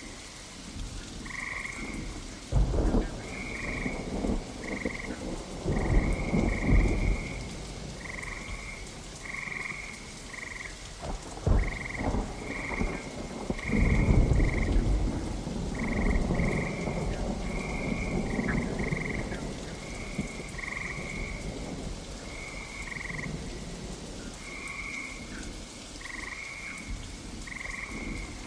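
Steady rain with several rolls of thunder: rumbles about three and six seconds in, a sharp crack near the middle, and a longer rumble soon after. Through it runs a steady series of short, repeated high chirping calls, one or two a second.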